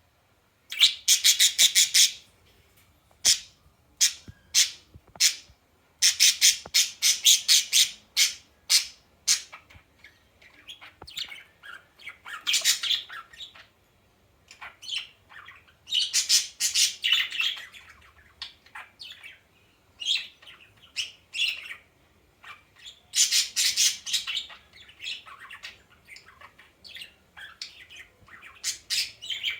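A bird squawking: harsh calls in repeated bursts, some of them quick runs of short squawks, with short quiet gaps between.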